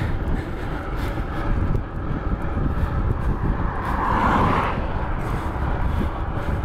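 Wind rumbling steadily over a phone's microphone, with road noise from a moving bicycle; a brief louder hiss swells about four seconds in.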